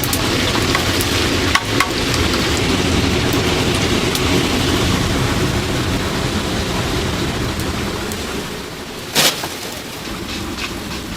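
Chicken deep-frying in a vat of hot oil: a steady crackling sizzle, with a few sharp clicks and one louder clack about nine seconds in.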